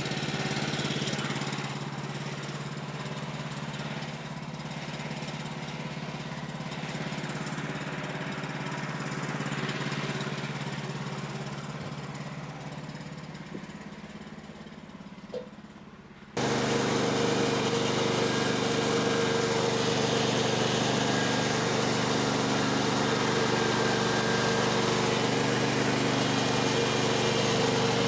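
Woodland Mills HM126 portable bandsaw sawmill's gasoline engine running steadily, fading slowly over the first half. About 16 s in it switches abruptly to a louder steady running with a higher hum.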